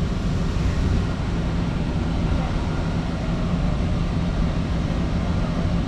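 Steady low rumble of a boat's engine running, with a constant hum.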